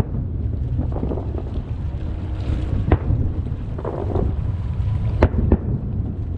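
Aerial firework shells bursting: sharp bangs about three seconds in and twice in quick succession around five seconds, over a steady low rumble.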